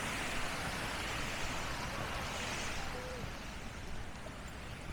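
Small waves washing onto a sandy beach, a steady hiss that eases a little about three seconds in, with faint voices of people nearby.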